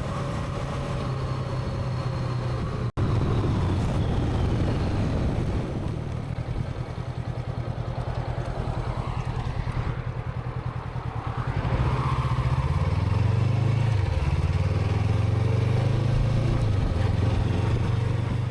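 Honda CB500X parallel-twin motorcycle engine running under way, with an abrupt cut about three seconds in. From about twelve seconds in, the engine's pitch repeatedly rises and drops back as the rider accelerates through the gears.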